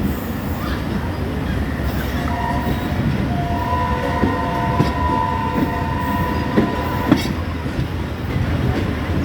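Train running past, a steady heavy rumble with sharp clicks of the wheels over rail joints. A steady high whine joins about two seconds in and stops about seven seconds in.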